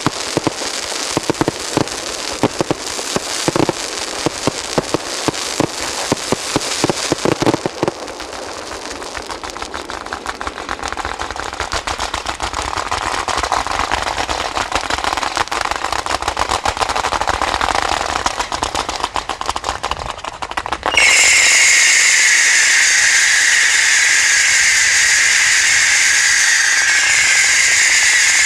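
Fireworks display: a rapid volley of sharp bangs for the first eight seconds or so, then a dense, fast crackle. About two-thirds of the way through, a loud steady hiss starts suddenly and holds.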